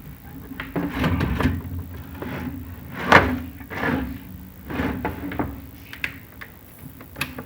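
Chimney inspection camera knocking and scraping against the staggered flue tiles as it is lowered down the flue: irregular knocks and scrapes, about one a second, over a low steady hum.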